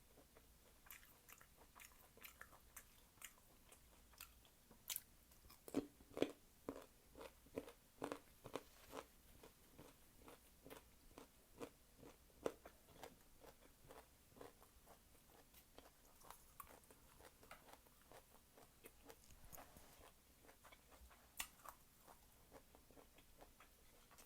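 Close-miked eating sounds: crisp bites and wet chewing of fresh fruit or raw produce, with a run of louder crunches about six seconds in and single sharp snaps near the middle and near the end.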